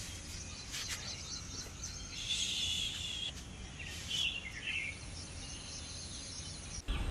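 Birds chirping over a faint, steady low rumble of outdoor background noise, with a few clearer calls between about two and five seconds in.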